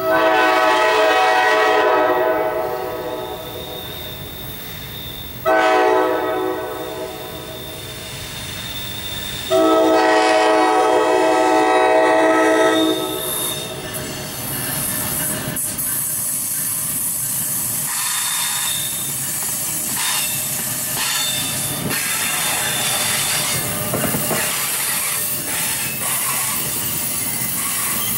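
NJ Transit commuter train sounding its multi-chime air horn three times: a long blast, a short one, then a longer one, as it approaches. The train of Multilevel double-deck coaches then rolls past with wheels clacking over the rail joints and squealing.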